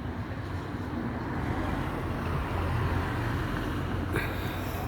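Motor vehicle engine running close by and passing, a low rumble that builds slightly to a peak about two to three seconds in and then eases off.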